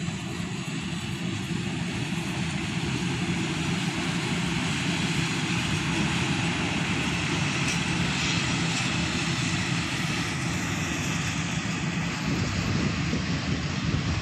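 Diesel multiple-unit train running slowly into a station: a steady diesel engine drone with wheel-on-rail noise, growing a little louder toward the middle as the railcars pass.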